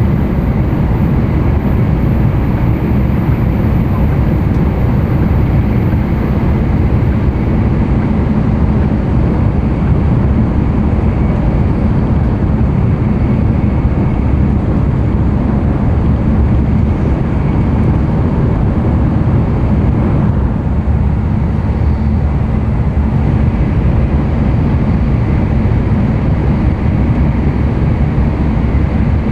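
Interior running noise of an N700-series Tokaido Shinkansen at speed: a steady, loud low rumble of wheels on rail and air rushing past the car, unbroken throughout.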